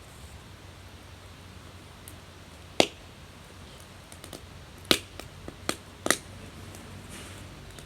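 Burning firewood crackling: several sharp pops, the first and loudest about three seconds in and a cluster a couple of seconds later, over a faint steady hiss.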